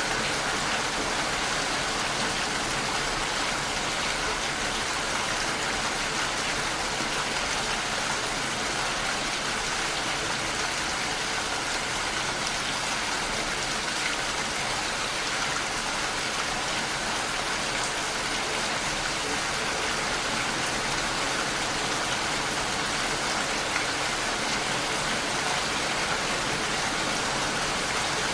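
Steady rain falling against a window pane, a dense, even hiss of drops with no separate patters standing out.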